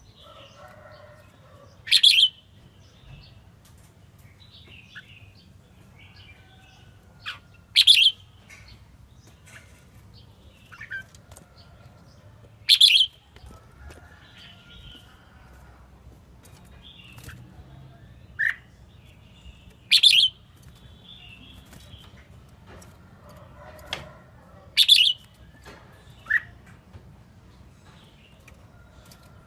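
Red-whiskered bulbul calling: short, loud, high song phrases about every five seconds, with softer single notes and faint twittering in between.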